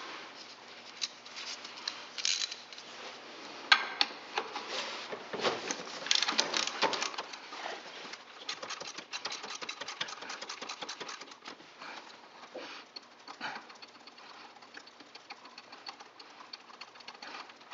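Socket ratchet clicking in quick runs as a 10 mm bolt is turned out, with scattered sharp knocks of metal tools against engine parts.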